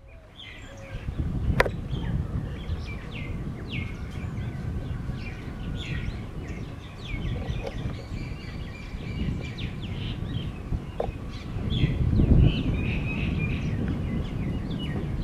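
Birds chirping over and over in short, falling calls, over a steady low rumble. There is a single sharp click about a second and a half in.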